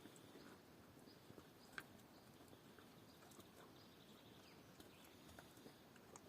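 Near silence: faint background hiss with a few tiny scattered clicks, one a little louder about two seconds in.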